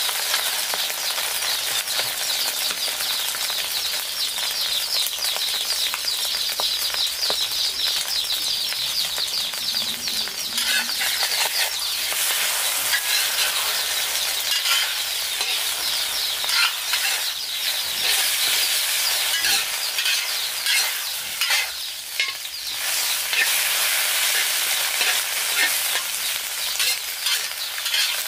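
Food frying in hot oil: a steady crackling sizzle with many small pops.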